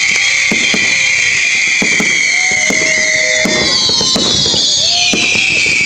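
Fireworks going off: a dense, continuous crackling fizz with scattered sharp bangs, and a whistle falling in pitch about four seconds in.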